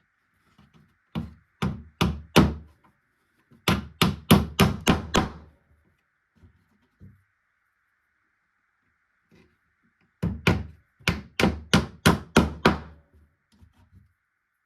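Hammering on wood: three quick runs of sharp blows, about four, then about eight, then about nine, with pauses between the runs.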